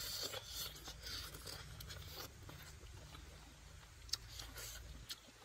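A person eating: crunchy chewing and soft scraping, with a few sharp clicks near the end.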